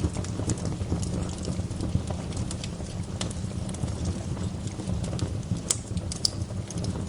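Wood fire burning in a fireplace: a steady low rumble of the flames with irregular crackles and small pops of burning wood, two sharper pops near the end.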